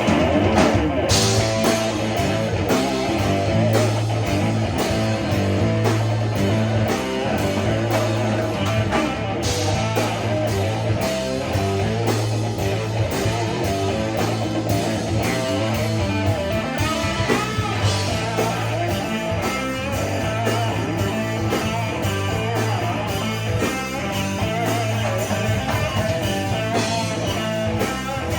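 Rock band playing an instrumental passage: guitar lines over a steady bass and drum beat.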